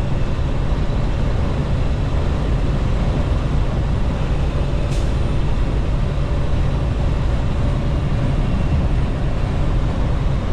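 Steady low drone of a semi-truck's engine and road noise heard inside the cab while driving, with one faint click about five seconds in.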